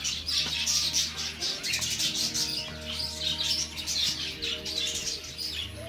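Many small birds chirping rapidly and continuously, over music with long held notes.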